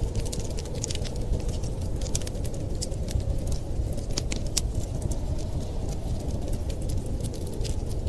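Wood fire crackling in a fireplace: irregular sharp snaps and pops over a steady low rumbling hiss.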